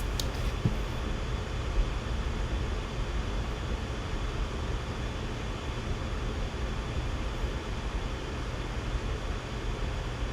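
Steady room noise during a pause in speech: a constant low hum with an even hiss over it, with no other events apart from a faint click at the very start.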